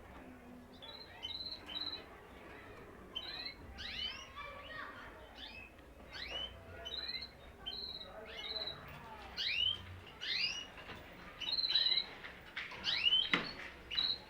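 Several small birds chirping and calling: a steady stream of short, quick rising chirps and brief high notes, growing busier and louder toward the end.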